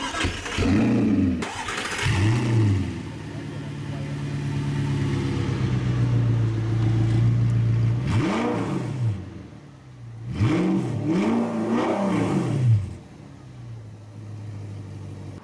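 Audi R8 V8 engine with an Armytrix aftermarket exhaust starting up and being revved twice, then held at a steady fast idle for a few seconds. About eight seconds in it is revved once more, then given several quick revs in a row before dropping back to a lower idle near the end.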